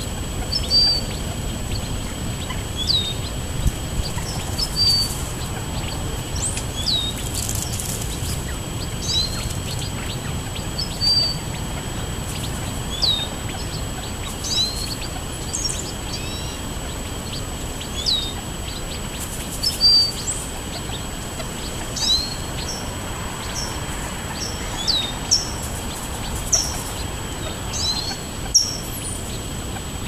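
Birds chirping: a string of short, sharp, rising chirps, roughly one every second or so, over a steady low outdoor rumble.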